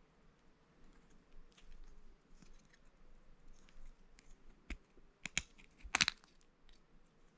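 Plastic Lego pieces being handled and snapped together: light rustling and small clicks, with a few sharper clicks in the second half, the loudest about six seconds in.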